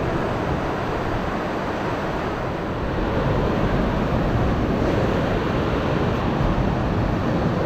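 Steady rushing noise of wind on the microphone mixed with surf breaking.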